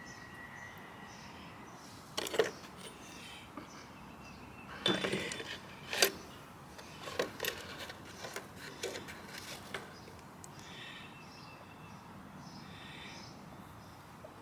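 Small carburetor parts being handled on a workbench: a scatter of sharp clicks and clinks, the loudest about two, five and six seconds in, with lighter taps over the following few seconds.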